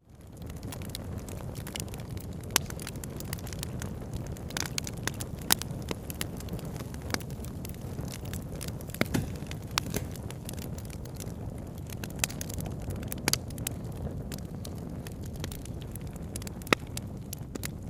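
Campfire crackling, with sharp pops at irregular intervals over a steady low rush of flowing river water. The sound fades up from a brief dip at the very start.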